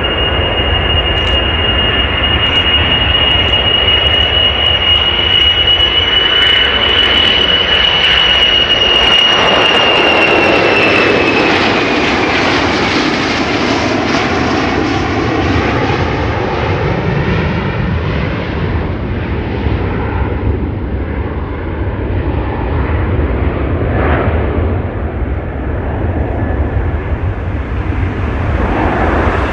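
Three-engined jet airliner flying past: a steady high engine whine over a deep rumble, the whine dropping in pitch about twelve seconds in as the plane passes, after which the rumble carries on with a sweeping, shifting tone.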